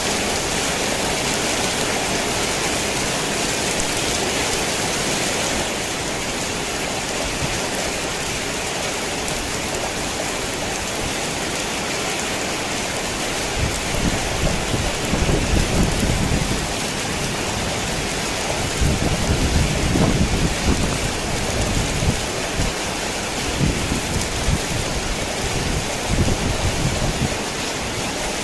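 Heavy rain falling steadily on a worn tin roof, with thunder rumbling in from about halfway through in several low, rolling surges.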